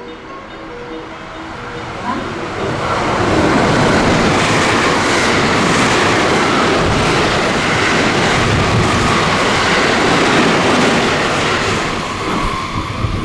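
Train passing at speed on a JR West line: the wheel and running noise builds over about two seconds, stays loud and steady for around nine seconds, then begins to fall away near the end.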